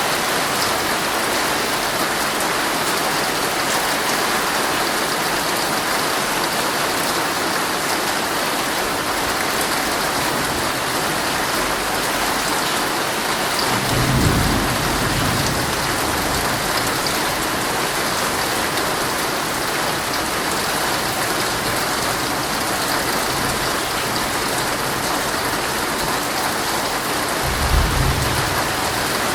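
Heavy rain falling steadily on a tent. Thunder rumbles low about halfway through, and a shorter low rumble comes near the end.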